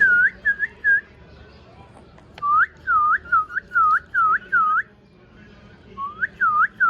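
Clear whistling in short phrases of quick, dipping-then-rising notes, three phrases separated by pauses of about a second.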